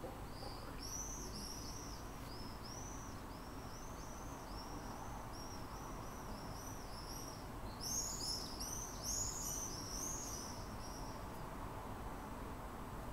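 A small bird singing: a rapid run of repeated high, arched chirps, a few per second, louder and busier about eight seconds in, stopping about two seconds before the end.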